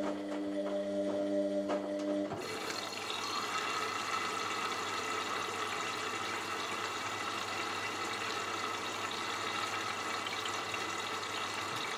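Water rushing steadily into a washing machine as it fills. The rushing starts about two seconds in, when a steady humming chord of several tones cuts off.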